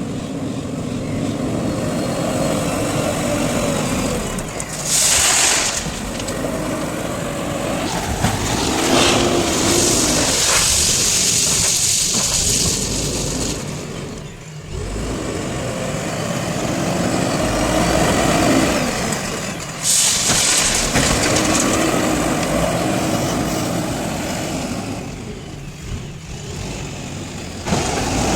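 JCB 3DX backhoe loader's diesel engine revving up and down under hydraulic load through two loading cycles, with loud bursts of hissing, rattling noise about 5, 9 to 13 and 20 seconds in.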